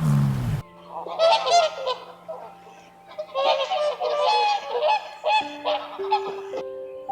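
Several birds calling in a flock, honking cries overlapping for about four seconds. Before that, a low growling call cuts off about half a second in, and a few single musical notes stepping upward follow near the end.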